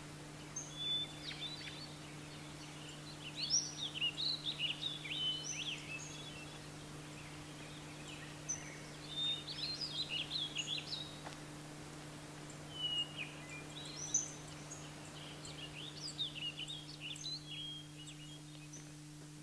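Songbird singing: bouts of quick, high warbling chirps every few seconds, over a steady low hum.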